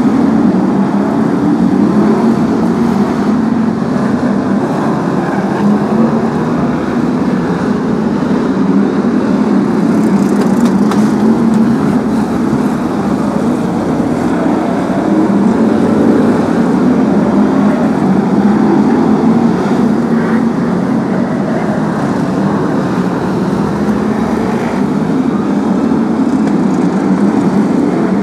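The V8 engines of BriSCA F1 stock cars racing around a short oval, a loud continuous din of several cars running at once.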